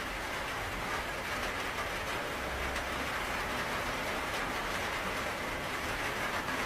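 Steady rainfall: an even, unbroken hiss of rain, with some low rumble underneath.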